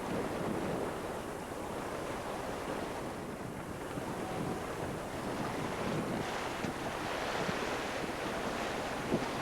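Steady rush of wind on the microphone and sea water washing past a sailing yacht under way, with a faint tick near the end.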